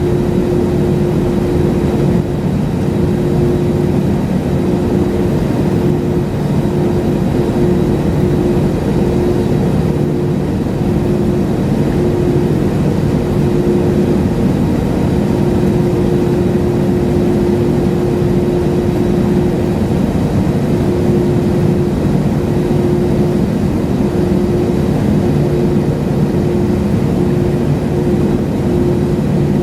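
Airliner cabin noise in flight: a steady, loud low rumble of engines and airflow with a constant hum.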